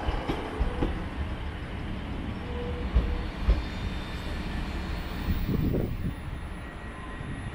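Passenger train running over the station's points and rail joints, its wheels giving heavy low knocks over a steady rumble, the two loudest about three seconds in.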